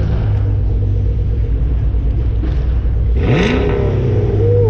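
Supercharged V8 idling steadily, then given a sharp throttle blip about three seconds in, its pitch rising and falling back to idle, with a second short blip near the end.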